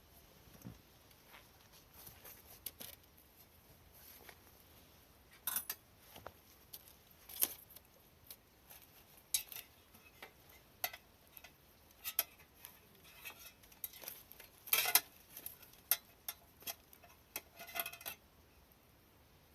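Scattered light clicks and clinks of cutlery and dishes being handled, irregular taps that come more often and loudest in the last third.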